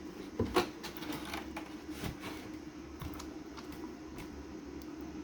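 Scattered light clicks and taps from the RC car being handled, over a steady low hum.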